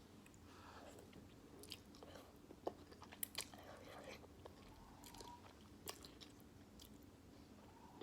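Faint close-up chewing of beef ramen noodles, with a few sharp mouth or utensil clicks, the loudest about three seconds in.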